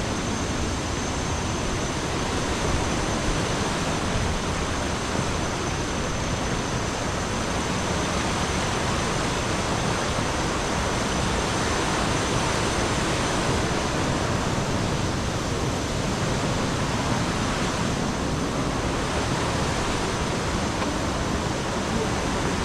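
Steady rush of a large waterfall, Thomson's Falls: an even, unbroken roar of falling water with no rhythm or changes.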